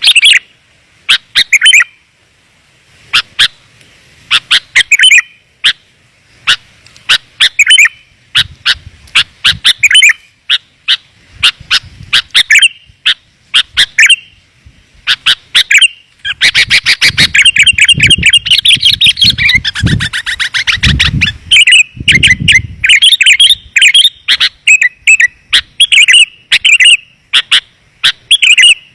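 Sooty-headed bulbul (kutilang) calls used as a lure: short, bright chirping phrases repeated every second or so, thickening into a dense run of rapid notes about two-thirds of the way through, with a low rumble under that busy stretch.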